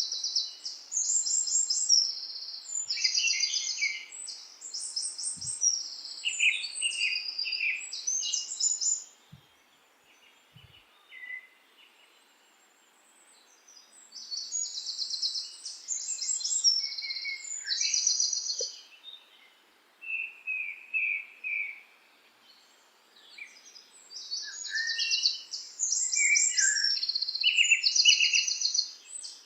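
Songbirds singing in bursts of rapid, high trilled phrases, with a pause of a few seconds about a third of the way in and a shorter one later.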